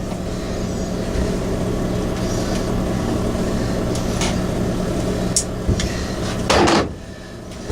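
Steady mechanical hum with a few light clicks of hand tools on metal, then a louder clatter about six and a half seconds in, after which the hum stops.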